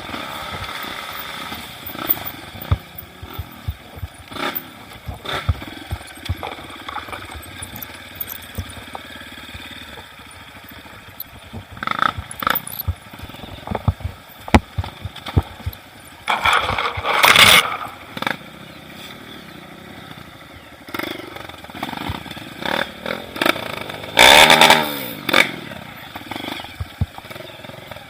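Trail motorcycle engine running and revving, with three louder bursts of throttle in the second half. Frequent sharp knocks and clatter run through it.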